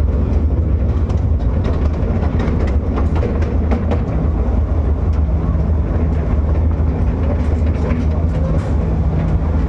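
Miniature passenger train running steadily, heard from on board: a continuous low rumble from its drive, with scattered light clicks from the wheels on the track.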